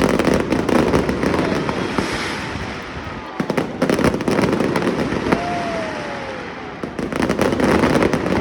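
Fireworks going off in three loud waves of rapid bangs and dense crackling, with a faint falling whistle between them.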